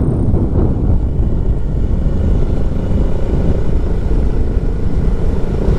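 Motorcycle on the move: a steady engine drone mixed with the rumble of wind over the microphone while riding.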